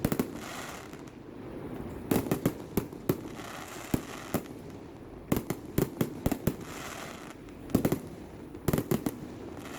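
Aerial fireworks shells bursting: sharp bangs coming in quick clusters of several at a time, with a fainter hiss between the clusters.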